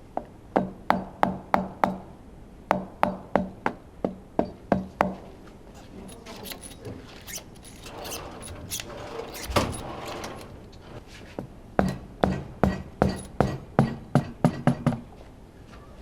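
A hammer tapping on metal engine parts in two steady runs of sharp knocks, about three a second, each with a short ring, with irregular clattering and scraping of parts between the runs.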